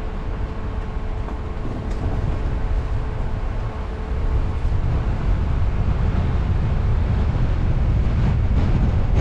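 Road and wind noise from a moving car: a steady low rumble with a hiss above it, growing louder about four seconds in.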